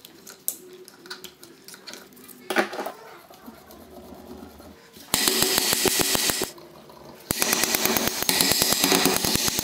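Light metallic clicks of parts and tools being handled, then a power wrench hammering rapidly in two bursts with a short pause between, undoing fasteners on the engine.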